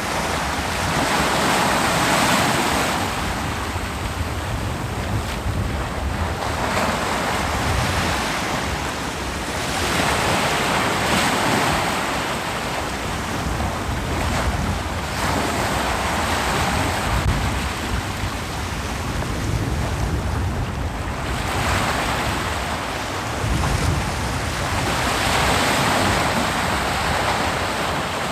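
Ocean waves breaking on a beach, the surf swelling and washing back in surges several seconds apart over a steady low rumble.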